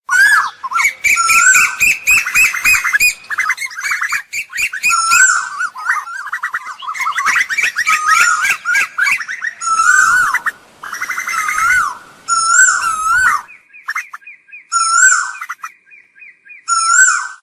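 Asian koels calling over and over: short notes that bend upward in pitch, mixed with rapid stuttering runs of notes. Near the end a fainter series of quick notes runs under the louder calls.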